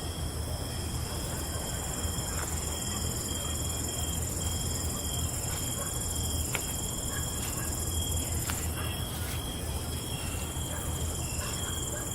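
Night chorus of crickets trilling steadily at several different pitches at once, over a low steady rumble.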